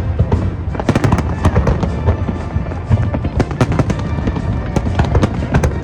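Aerial fireworks bursting in quick succession: many sharp bangs and crackles over a continuous low rumble.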